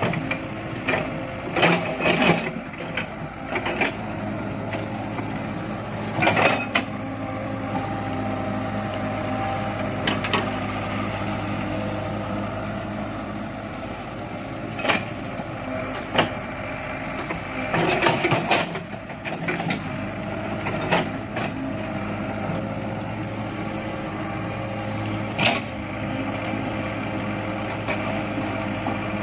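Excavator engine running steadily under load, with sharp cracks and knocks every few seconds as the bucket tears at tree stumps and roots.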